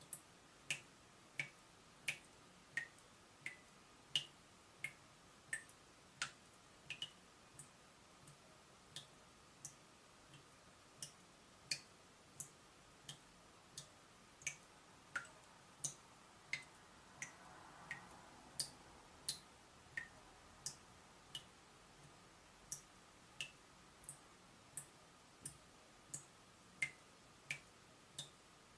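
Water dripping from a leaking tap, drop after drop at a steady pace of about one every 0.7 seconds. Each drop is a short, faint plink whose pitch varies from drop to drop.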